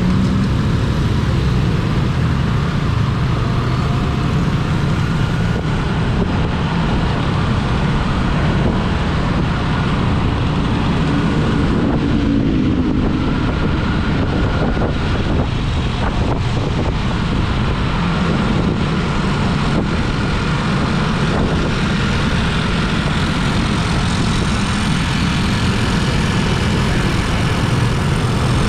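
Vehicle engine and road noise while travelling, a steady low rumble with wind buffeting the microphone.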